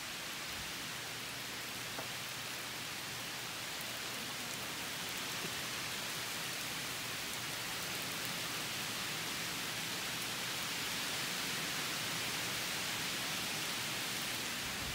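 Heavy rain falling steadily on grass and pavement, an even hiss that grows a little louder over the stretch.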